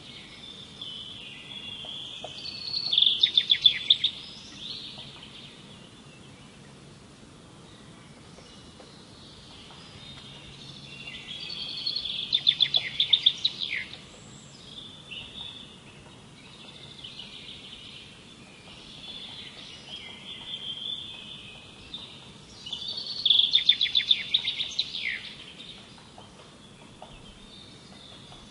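Songbird singing: three song phrases about ten seconds apart, each a high warbling run that builds into a loud, fast trill of rapid notes, with softer chirps between them.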